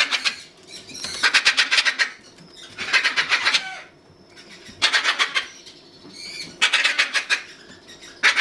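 Parrots screeching: a string of harsh, rasping calls, each lasting about half a second to a second, repeating roughly every couple of seconds.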